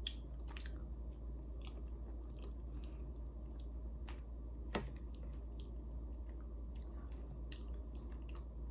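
Chewing of tender pot roast and mashed potatoes: soft, wet mouth sounds and small clicks, with one sharper click about five seconds in.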